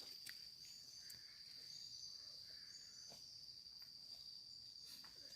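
Insects trilling on one steady high note, with a fainter short chirp repeating about once a second and a few faint clicks.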